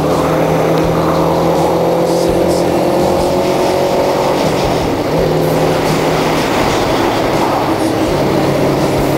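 Kawasaki Ninja 250R's parallel-twin engine running on the move, its pitch climbing slowly for the first few seconds, dropping about five seconds in, then holding steady, over a steady rush of wind noise.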